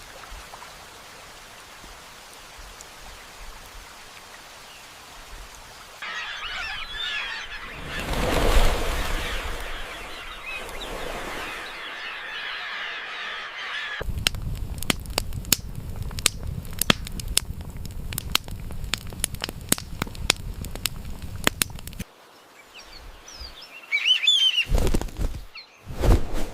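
Nature recordings cut together: a faint steady hiss, then birds chirping with a loud swell partway through, then several seconds of dense sharp crackling clicks over a low rumble, and short loud bursts near the end.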